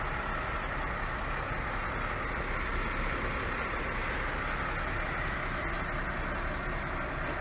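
Mack Trident tanker truck with an MP8 diesel running steadily: an even rush of engine and road noise that holds the same level and pitch throughout.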